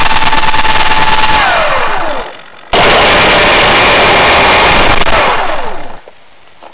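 An RC plane's electric motor and propeller, heard from a camera mounted on the plane with heavy wind rushing over the mic. It runs loud at full throttle, and its whine falls away as the throttle is cut about a second and a half in. Just under three seconds in it comes back loud at once, then winds down again near five seconds and is quiet near the end.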